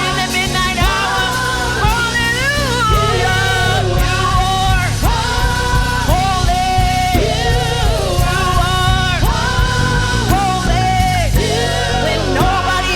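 Worship band music: a singer holds long, wavering notes without clear words over a full band with steady bass and drums.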